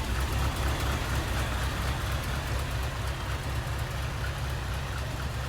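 Toyota truck's carbureted engine idling steadily with a low, even pulse, just fired up after sitting about a week and starting to run a little rough.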